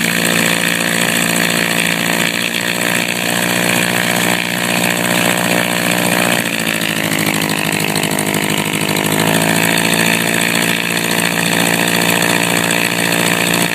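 1967 Cessna 150's four-cylinder Continental O-200 engine running with the propeller turning. Its speed drops about six seconds in, then picks up again a few seconds later.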